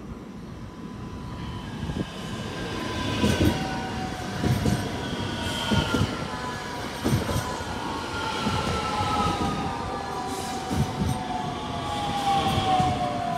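Red regional electric multiple-unit train pulling in alongside the platform, getting louder as it nears. A whine slowly falls in pitch as the train slows, and the wheels knock over the rail joints about once a second.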